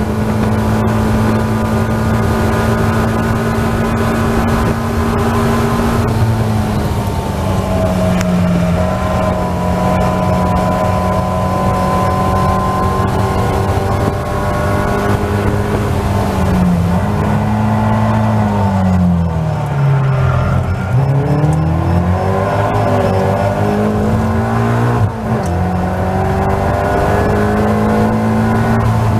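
Caterham Seven race car's four-cylinder engine heard from inside the open cockpit, held at high revs around 6,000 rpm. About halfway through, the pitch drops and swoops back up twice as the car brakes and changes down a gear. The engine then pulls at high revs again.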